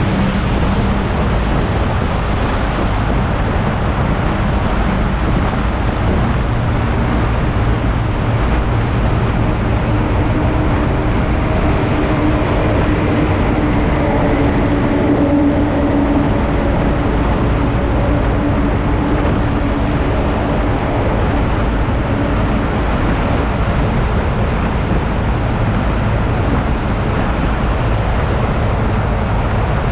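Steady rush of wind and road noise from a motorcycle on the move, with engine noise underneath and a faint engine tone standing out in the middle stretch.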